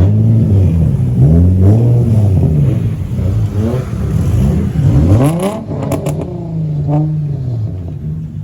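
Car engine revving again and again, its pitch climbing and falling back with each rev, the sharpest climb about five seconds in, with a few short sharp cracks just after.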